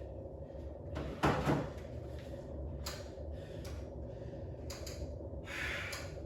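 Two loud knocks about a second in, followed by a few lighter clicks and a brief rustle, the sound of things being handled and set down, over a steady low hum.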